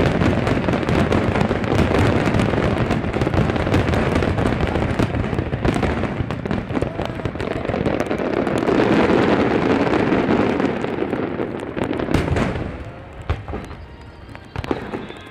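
Dense fireworks barrage: many shells bursting at once in a continuous run of overlapping booms and crackling. It thins out about thirteen seconds in, leaving a few separate bangs before the bursts pick up again at the very end.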